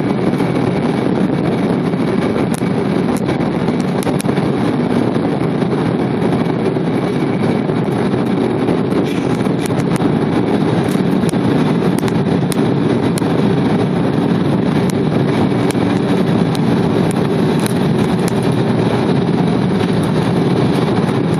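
Embraer 190's twin CF34-10E turbofan engines running at high takeoff power with a steady, loud rumble and rush of air.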